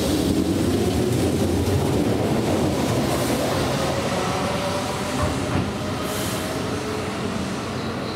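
Keihan electric train running along the platform: a steady rolling rumble that eases off slightly toward the end.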